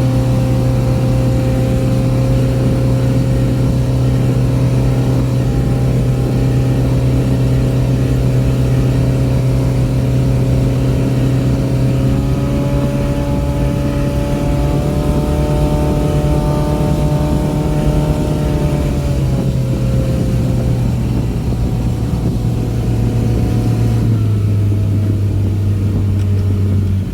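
Boat's outboard motor running at wide-open throttle, around 5,000 rpm, as a steady drone. Its pitch rises a little about halfway through, then eases and drops lower near the end as the throttle comes back.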